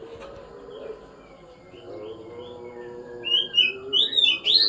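Oriental magpie-robin (kacer) singing: a varied run of short chirps and whistles, soft at first and then loud and quick from about three seconds in.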